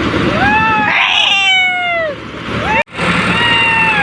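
Long, drawn-out shouts from several people, each voice gliding up and then falling, over the steady rumble of tractor engines working under load. The audio cuts out for an instant near the end.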